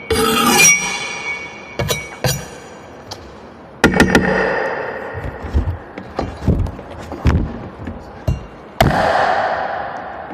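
A blade chopping into coconuts in a large echoing room: three heavy chops, at the start, about four seconds in and near the end, each ringing with a metallic tone and a long echo, with lighter knocks and dull thuds between them.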